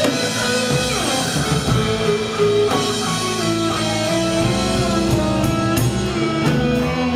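Live rock band playing an instrumental passage, with guitar and drum kit and sustained pitched notes that change over the bars, cymbal hits near the end.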